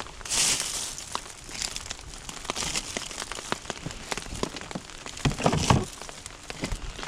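Rustling and crinkling handling noises with many scattered clicks. There is a hissing rustle about half a second in, and a couple of heavier knocks a little after five seconds.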